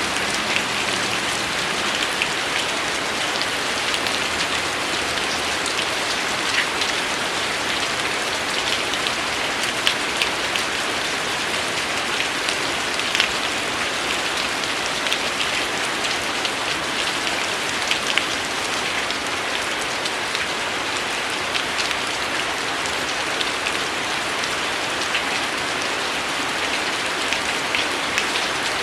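Steady rain falling on a surface: an even hiss with sharper single drops ticking here and there.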